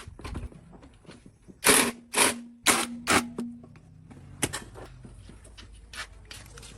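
Four hard metal strikes about half a second apart, with a short ringing tone after them, like hammer blows on steel plate, followed by a few lighter knocks.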